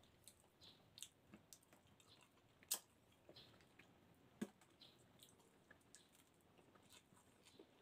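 Faint eating sounds of a person eating fish and rice by hand: soft chewing, wet mouth clicks and squishes, with two sharper clicks, one near the middle and one a little later.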